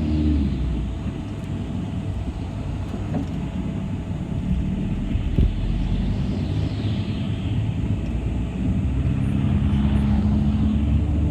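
City bus running, heard from inside: a steady low rumble of engine and road. The engine hum fades soon after the start and swells again in the last few seconds, with a single knock about five seconds in.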